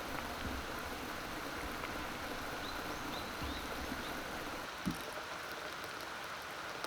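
Steady rushing of a mountain stream, with a few faint high chirps in the middle and a soft thump about five seconds in.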